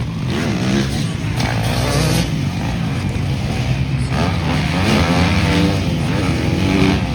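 Motocross motorcycle engines revving hard and changing pitch up and down as the bikes race on the track, several machines overlapping.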